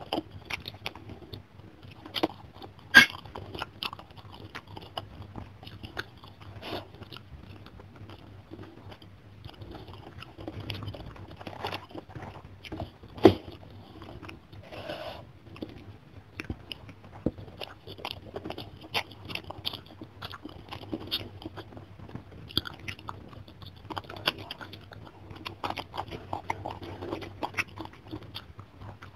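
Close-up chewing and biting of a person eating fish and rice by hand, a steady run of small mouth clicks with some crunching. Two sharp louder clicks stand out, about 3 and 13 seconds in.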